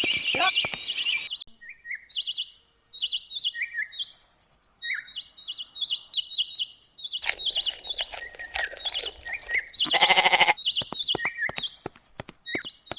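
Small birds chirping in quick repeated phrases, with scattered short clicks, and one loud livestock bleat about ten seconds in.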